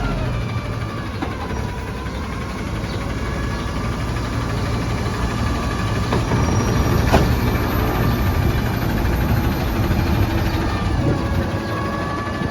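Autocar ACX garbage truck's diesel engine running steadily, its pitch dropping at the start and climbing again near the end, with one sharp knock about seven seconds in.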